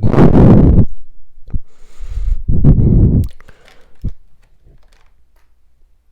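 Two loud rumbling bursts of handling noise on the microphone, one at the start and one about two and a half seconds in, with a few sharp clicks of plastic vacuum cleaner parts being fitted.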